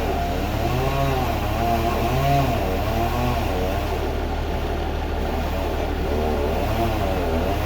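An engine running, its pitch rising and falling over and over above a steady low hum.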